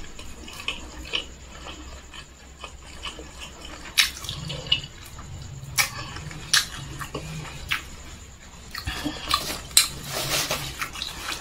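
Close-miked eating sounds: wet chewing and lip smacks from a mouthful of rice and fried chicken, with sharp clicks scattered through and a flurry of them near the end. A low hum runs through the middle.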